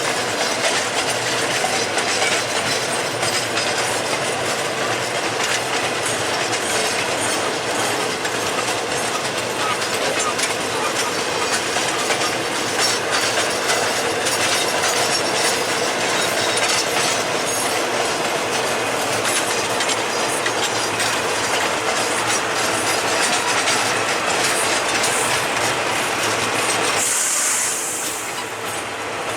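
Cars of a CN taconite ore train rolling past, their wheels clattering steadily over the rails. Near the end the rumble drops and there is a short hiss.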